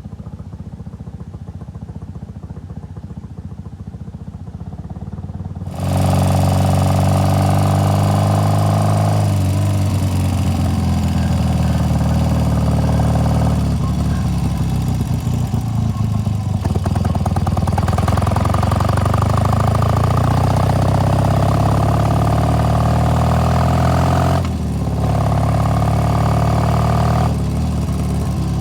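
Classic British parallel-twin motorcycle engine, quieter at first, then abruptly much louder about six seconds in as the bike is ridden, its pitch rising and falling with the throttle and gear changes. The engine note dips briefly a few seconds before the end.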